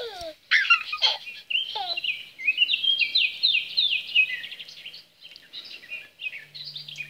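Birds singing: a busy mix of quick chirps, rapidly falling whistled notes and trills. A low steady tone comes in near the end.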